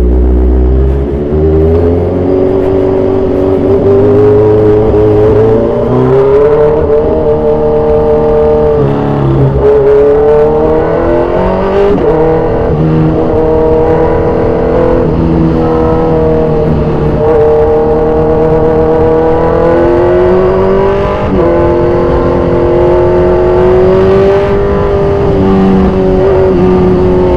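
Kawasaki Z1000 inline-four with an aftermarket exhaust running loud under way, its pitch climbing under throttle with a few sudden drops at gear changes.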